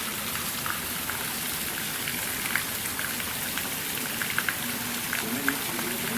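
Steady rain falling, a even hiss with scattered drops ticking sharply on a hard surface. A faint low hum comes in near the end.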